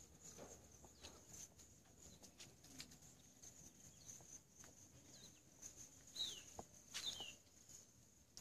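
Near silence: faint outdoor ambience with a steady high hiss, and a few short falling bird chirps about six to seven seconds in.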